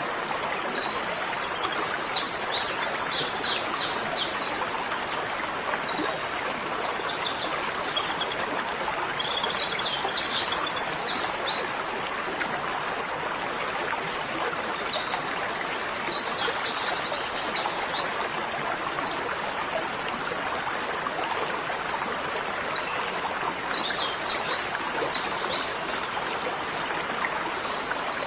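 A small bird singing in several bouts of rapid, high chirping notes, over a steady rushing sound of running water.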